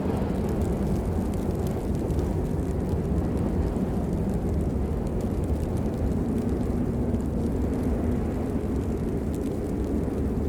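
Steady rain: a constant deep rumbling wash with faint, scattered drop ticks on top.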